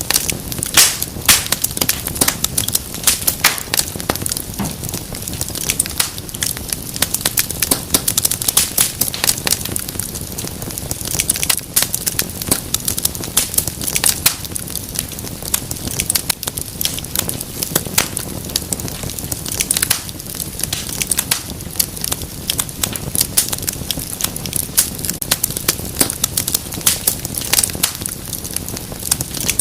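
Wood fire in a fireplace, crackling and popping in many sharp, irregular snaps over a steady low rush of flame.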